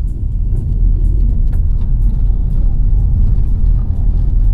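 Heavy low road rumble inside a Subaru Crosstrek driving over a bumpy unpaved gravel road, with faint scattered rattles and ticks.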